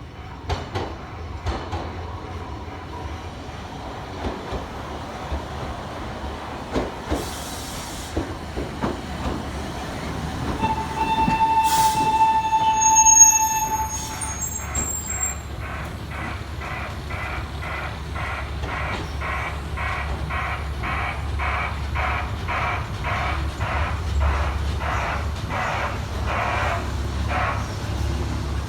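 Iyotetsu Botchan Ressha replica steam train: scattered knocks, then about ten seconds in a whistle held for a couple of seconds. It then moves off with a regular chuffing beat, about two a second, over a low engine rumble that grows louder.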